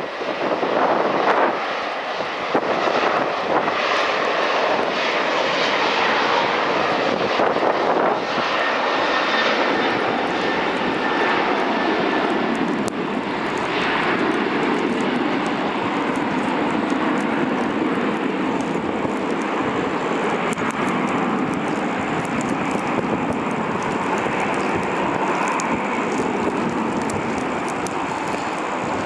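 Jet airliner engines running, a loud steady rushing noise that turns deeper about halfway through.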